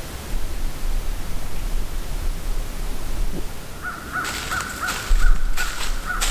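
A bird calling over and over in the woods, several short calls a second, starting about four seconds in, over a low steady rumble.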